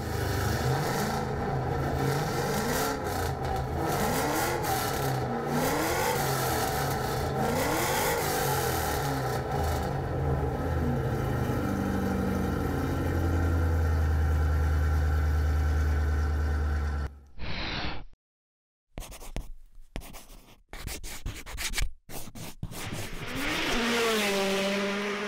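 A Ford Mustang race car's V8 running through its twin rear exhaust, blipped up in several quick revs and then settling to a steadier idle before cutting off abruptly about 17 seconds in. Near the end, a short synthetic logo sound effect of clicks and a rising tone.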